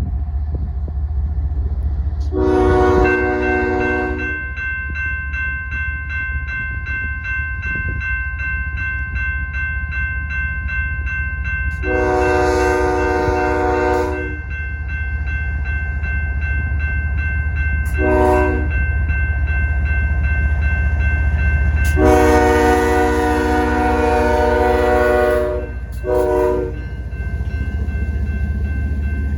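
Approaching freight train's diesel locomotive sounding its multi-chime air horn in the grade-crossing pattern: two long blasts, a short one, a long one, then a final short toot, over a steady low engine and rail rumble. A steady high, rapidly repeating ringing starts with the first blast and carries on beneath the horn.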